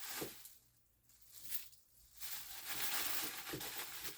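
Soft rustling with a few light knocks as chopped frozen callaloo is handled and dropped into a pot of boiling water, in short patches with brief pauses between.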